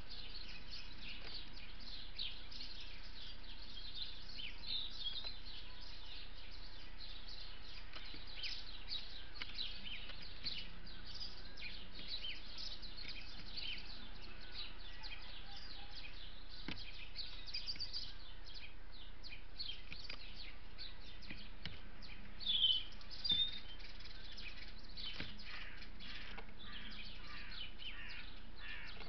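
Small birds chirping: a steady run of short, high chirps, with two louder calls close together about three-quarters of the way in.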